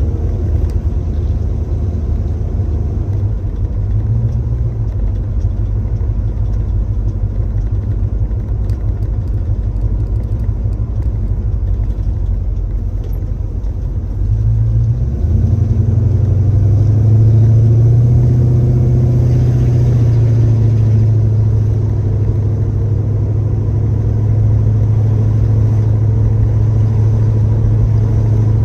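1966 Chevrolet Chevelle under way, heard from inside the car: a steady low engine note with road noise. About halfway through, the engine note grows louder and stronger and stays there.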